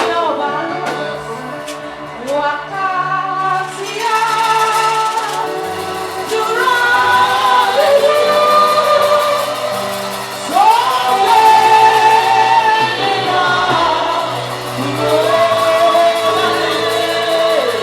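Gospel praise music: a woman's voice singing long, gliding phrases over a band with sustained bass notes, possibly joined by backing voices.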